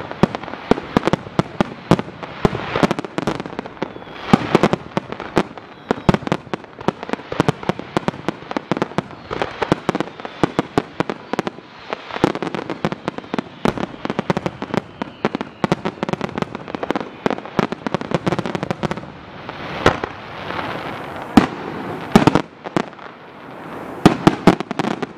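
Aerial fireworks display: a rapid barrage of shells bursting in quick, overlapping bangs with crackling, going on without a break.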